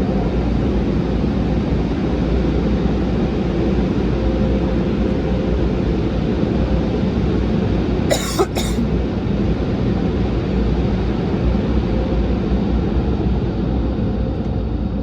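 Car wash tunnel dryer blowers running with a steady, loud rushing of air over a low rumble. About eight seconds in there is a brief double knock.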